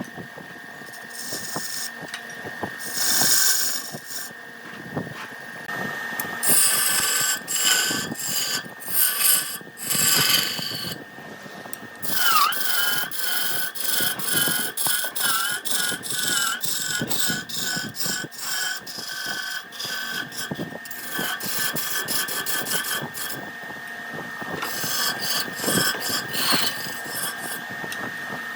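Wood lathe running with a steady whine while a turning tool cuts the spinning wood in short scraping passes. The whine dips briefly in pitch each time the cut bites, over and over in the second half.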